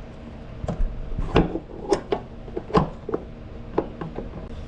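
Irregular sharp clicks and knocks, about seven of them, of hands and metal parts being handled while a fuel line is hooked back up on the engine.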